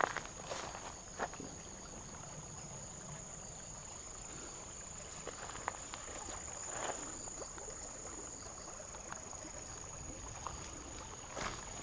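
Steady high-pitched insect trilling, with a few scattered soft footsteps and clicks.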